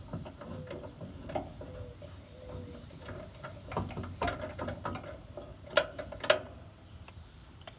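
Irregular clicks and knocks of a screwdriver and parts as the air filter is taken off a lawn mower engine, with two sharper knocks about six seconds in.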